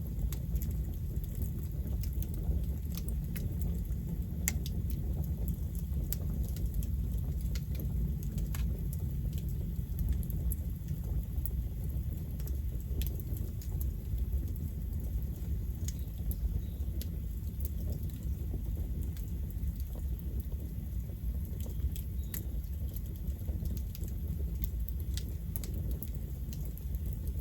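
Campfire burning: wood crackling and popping in many scattered, irregular sharp snaps over a steady low rumble.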